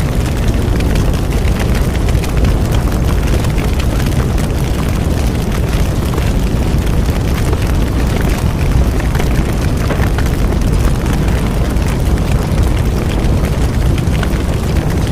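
Bonfire burning: a steady low rumble of the flames with many small crackles and pops throughout.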